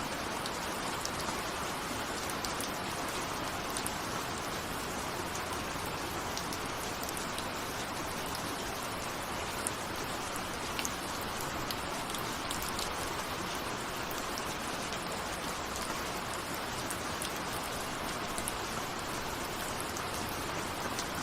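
Steady rain, with single raindrops ticking sharply against a window pane.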